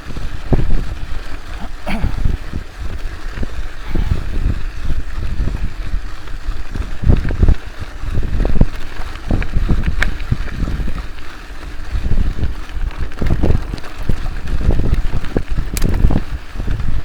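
Wind buffeting the microphone in strong, uneven low gusts.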